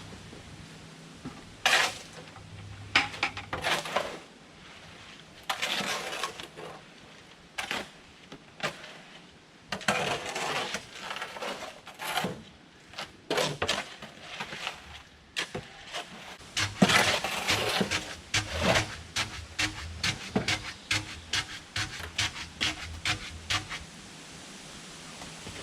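Irregular knocks, clatters and scraping, heaviest around the middle, with a run of quick light knocks near the end.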